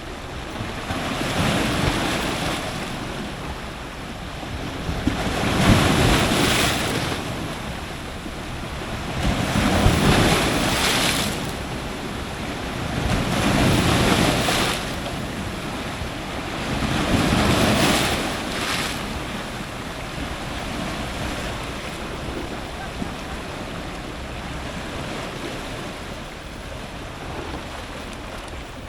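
Strong ocean surf breaking at the waterline, in surges about every four seconds. Each surge swells up and rolls back, and after about twenty seconds the surf settles to a steadier, quieter wash.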